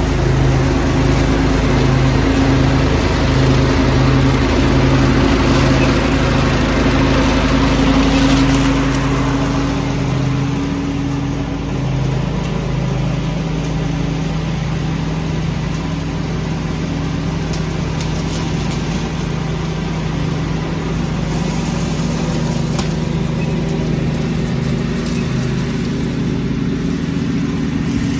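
Small engine of a leaf-vacuum rig running steadily, with a broad rushing blower noise over it. The rushing is louder for about the first nine seconds, then eases to a quieter steady run.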